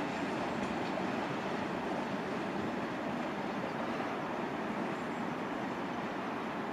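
A passenger train running away down the track, with a steady noise of engine and wheels.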